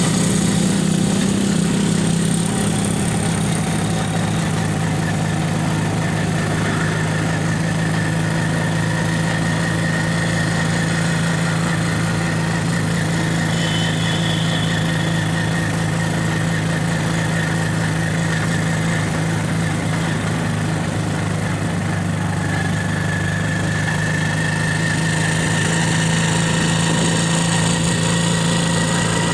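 Vehicle engine running steadily at an even pitch, with a faint high whine that comes and goes.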